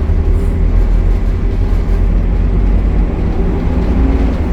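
Optare Solo single-deck diesel bus running with a steady low rumble.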